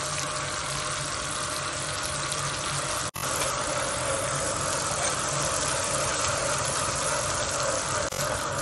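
Masala-coated pumpkin slices sizzling steadily as they shallow-fry in oil and a little water on a dosa tawa, while a spatula turns them. The sound cuts out for an instant about three seconds in.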